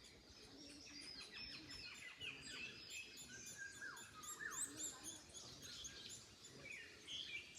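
Several birds singing and chirping together, with rapid high chirps and a few clear whistled notes that fall in pitch about four and a half seconds in, over a faint low rumble of wind.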